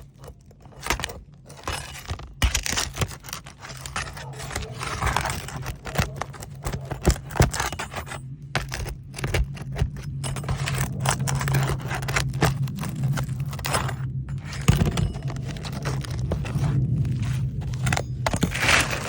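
Asphalt roof shingles and a metal roofing tool scraping and rasping in irregular strokes as a stuck shingle is worked loose and slid along the roof, with scattered clicks and ticks. A low steady hum sits underneath and grows louder in the second half.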